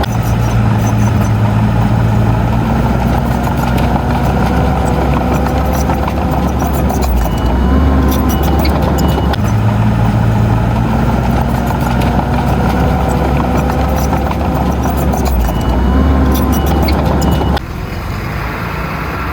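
Heavy-equipment diesel engine running steadily, mixed with a repeating background music loop. The sound changes abruptly near the end.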